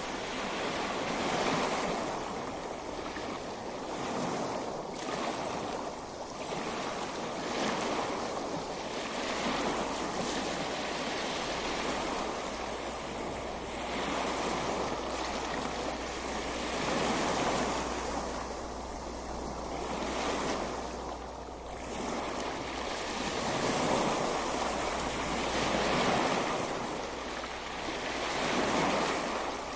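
Ocean waves breaking and washing on a beach, a steady surf noise that swells and eases every few seconds.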